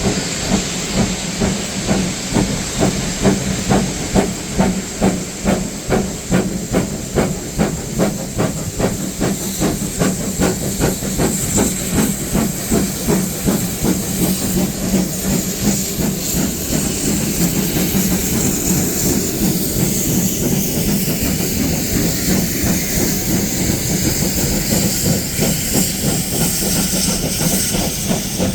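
Steam locomotive working under load. Its exhaust beats start at about two a second, quicken, and blur by the second half into a steady rush of steam and hiss.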